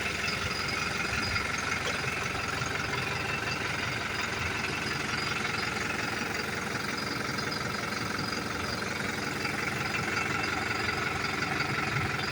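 New Holland TT4.90 tractor's diesel engine running steadily.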